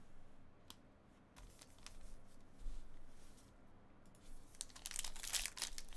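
Foil trading-card pack being torn open, its wrapper crinkling and crackling more and more loudly from about four seconds in, after a few faint clicks of cards being handled.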